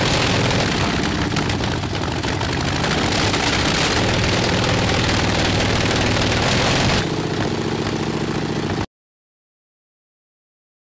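Toy drone's electric motors and propellers whirring steadily, changing slightly about seven seconds in, then cutting off suddenly.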